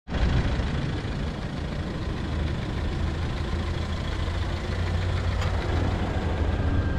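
Mahindra Thar SUV engine idling steadily, a low even rumble.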